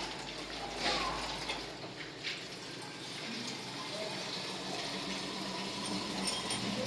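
Water running steadily, with a few light knocks about one and two seconds in.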